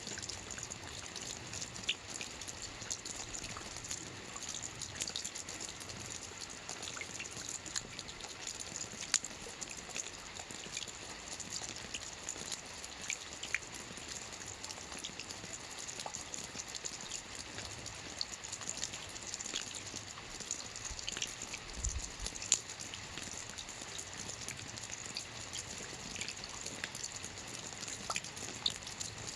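Steady rain falling on a lake, a dense even patter of drops on the water with scattered sharper drips. A brief low rumble about three quarters of the way through.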